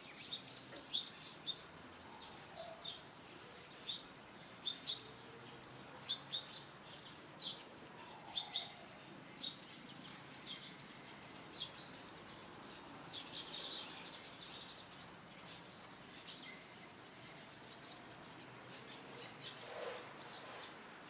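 Small birds chirping: short, sharp high notes repeated irregularly, over a faint steady outdoor background.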